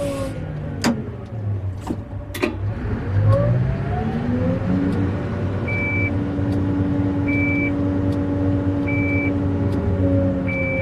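Mining haul truck's diesel engine running. Its revs dip, then climb about three seconds in and hold steady. A few sharp clicks come early, and a short high beep repeats about every one and a half seconds through the second half.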